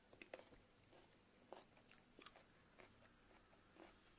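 Faint crunchy chewing of crisp crinkle-cut fruit, with light crinkles from a clear plastic bag; a scatter of small, soft clicks and crackles.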